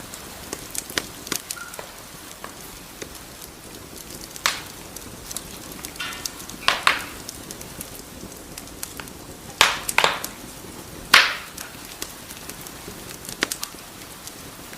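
Wood fire crackling in a fireplace: a steady low hiss with frequent small snaps and several louder pops, the loudest about eleven seconds in, and a brief faint whistle about six seconds in.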